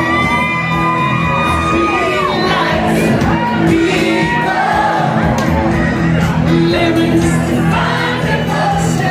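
A group of people singing loudly along to music, with shouts and whoops mixed in.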